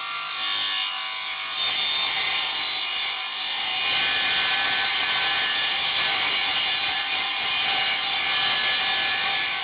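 A power saw ripping through stiff aluminium capping, cutting it into strips; a steady, loud cutting noise that gets louder about a second and a half in as the blade bites.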